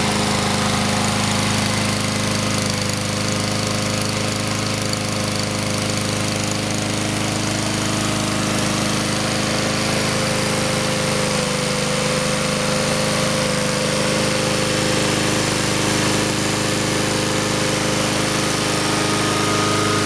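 Honda GCV160 single-cylinder engine of a Husqvarna HU700F walk-behind mower running steadily at a constant speed, with the blade turning.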